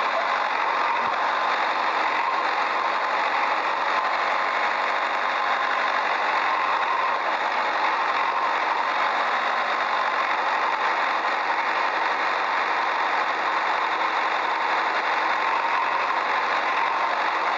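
An engine or motor running steadily at an even pitch, with a rough noise that sits mostly in the middle and upper range and has little bass.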